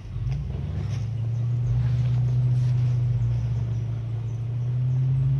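Engine of a 4x4 off-road vehicle running steadily at low revs, a low, even drone that rises slightly in pitch in the first half-second.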